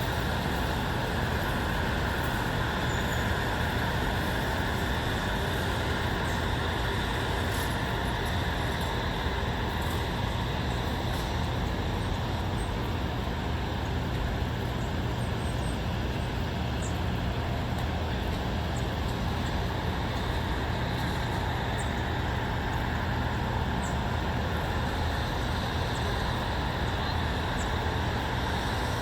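Steady, even background rumble and hiss of distant road traffic.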